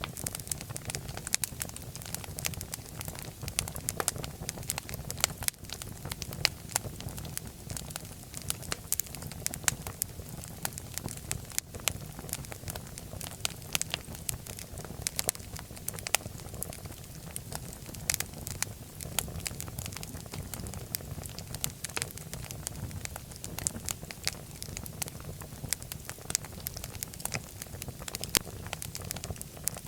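Fireplace fire crackling: frequent, irregular sharp pops and snaps over a steady low rumble of flame.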